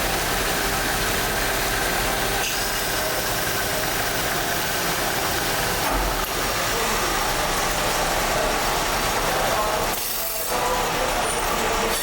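Steady workshop machinery noise, a dense mechanical din with a brief dip about ten seconds in.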